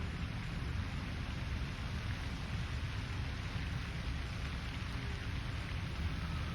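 Steady outdoor lakeside ambience: an even, rain-like hiss over a low rumble. A faint, brief whistle comes in near the end.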